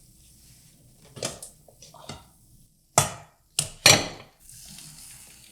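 A spatula knocking and scraping against a frying pan, with a few sharp knocks that are loudest about three and four seconds in, then a faint frying sizzle.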